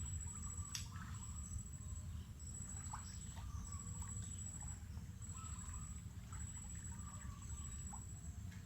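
Insects buzzing in a high, steady pitch that comes in pulses of about a second, with scattered short bird chirps and a click about a second in, over a constant low rumble.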